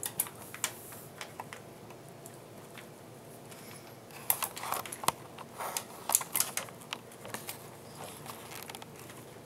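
Irregular small clicks and taps of a screwdriver working fan mounting screws tight inside a computer case, with a busier run of clicks about halfway through.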